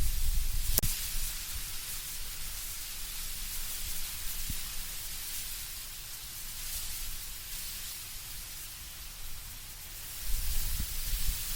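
Wind in autumn trees, with leaves rustling as a steady high hiss. A low rumble of gusting wind swells at the start and again near the end, and a single sharp click sounds about a second in.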